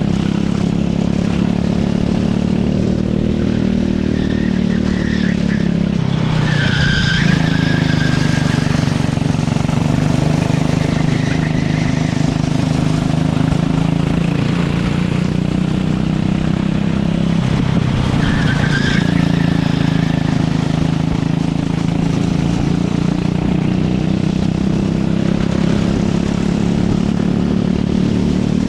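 Racing kart engine running hard, its pitch dropping twice under braking, about a quarter of the way in and again about two-thirds in, each time with a short tyre squeal through the corner before the revs climb back.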